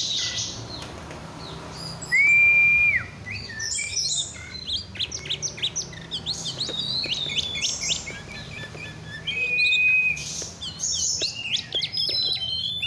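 Oriental magpie-robin (kacer) singing a varied song of quick chirps and trills. A long, steady whistled note comes about two seconds in and drops at its end, and another held whistle follows later.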